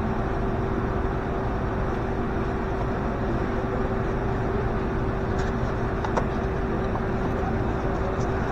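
A steady machine hum with one constant tone over an even rumble, unchanging throughout, with a few faint light clicks.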